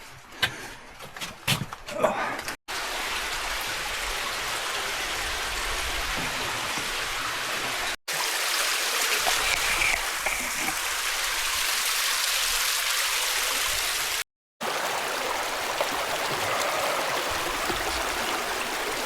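Creek water running with a steady rushing hiss, broken off for a moment twice. A few sharp knocks and clicks come in the first couple of seconds.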